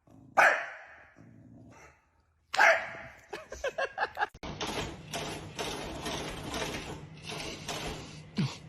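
A dog barks twice, sharp and loud, about two seconds apart. From about four seconds in, a busier run of rapid sounds follows.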